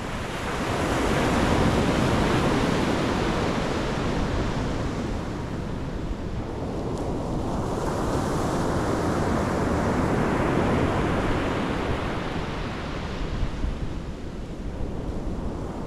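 Pacific Ocean surf: waves breaking and washing up the shore in two long swells, the first soon after the start and the second through the middle, easing off near the end, with some wind on the microphone.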